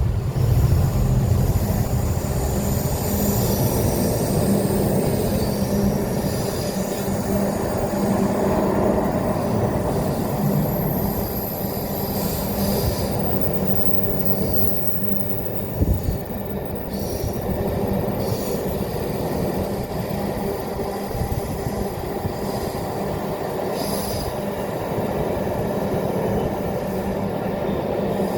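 Container wagons of a slow freight train rolling past behind a Class 66 diesel, a steady rumble of wheels on rail with brief high-pitched wheel squeals now and then and a single knock about halfway through.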